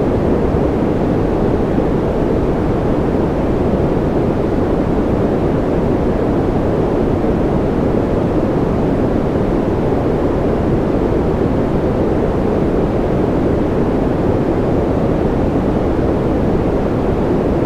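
Steady synthetic white noise for sleep, with no change or break. Its weight sits low, giving a deep, even rush with little high hiss on top.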